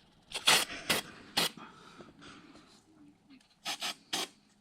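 Seven short rasping scrapes, three in quick succession early on and another quick group near the end.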